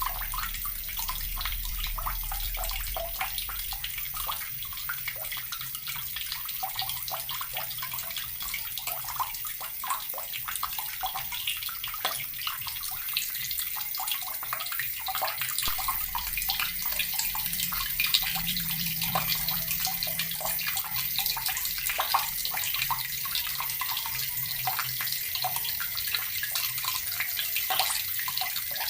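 Tap water running steadily and splashing, a continuous hiss with fine irregular spatters.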